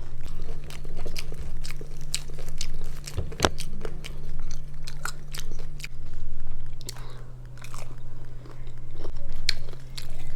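A person chewing and biting fast food, with repeated crisp crunches and mouth clicks; one sharp crunch about three and a half seconds in. A steady low hum runs underneath.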